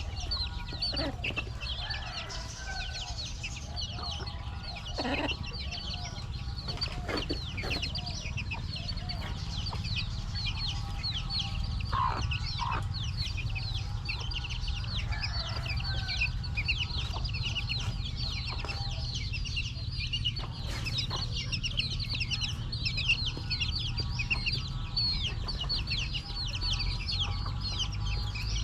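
A flock of young chickens peeping all together: many short, high, downward chirps overlapping without a break. Occasional sharp taps and a steady low rumble run underneath.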